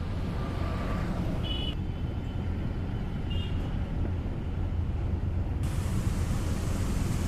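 Steady low rumble of a moving road vehicle, engine and road noise, with two brief high tones in the first half and a hiss that suddenly gets brighter about two thirds of the way through.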